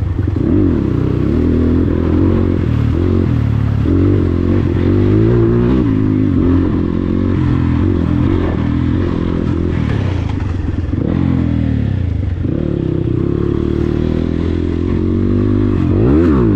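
Dirt bike engine being ridden, its revs rising and falling over and over with the throttle, with a sharp drop and quick climb near the end.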